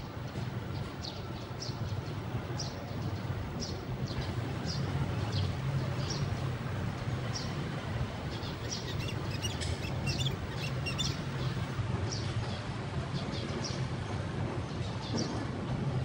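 Small birds chirping in short, repeated high calls, denser around the middle, over a steady low rumble.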